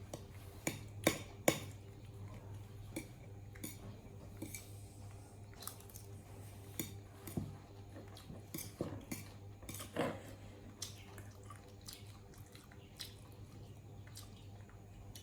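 Scattered small clicks and taps, as of food and a dish being handled, with the loudest two about a second in and another about ten seconds in, over a steady low hum.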